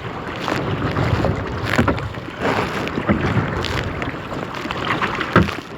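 Kayak paddles splashing in choppy water, with irregular splashes every second or so, under strong wind buffeting the microphone.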